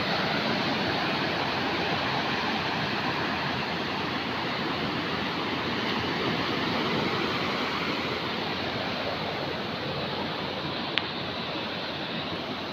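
Surf washing onto a beach, a steady rush of breaking waves, with one short click about eleven seconds in.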